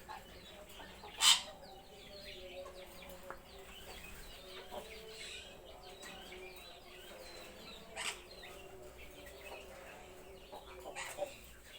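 Many birds chirping and chattering together, with a loud, harsh squawk about a second in and shorter loud calls near 8 seconds and near the end.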